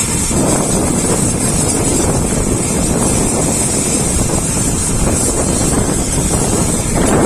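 Helicopter running close by: a loud, steady rotor and engine noise with a thin high whine, and wind buffeting the microphone.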